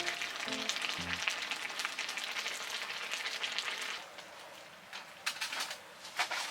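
Food sizzling and frying in a hot pan, a dense crackling fizz that drops away about four seconds in, leaving a few faint pops.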